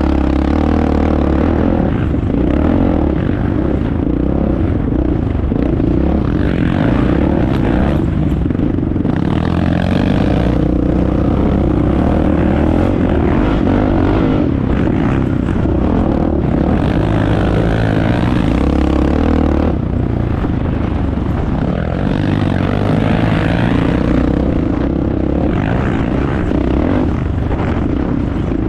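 Vehicle engine running steadily while on the move, with road and wind noise.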